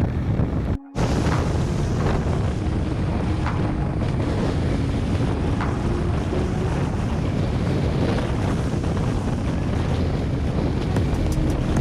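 Heavy wind rumble on the microphone of a moving motorcycle, with the engine running beneath it. The sound cuts out for a moment about a second in.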